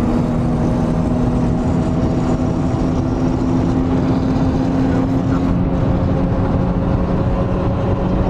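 Car engine drone and road noise heard inside the cabin of a car cruising at a steady speed, the engine note holding nearly level throughout.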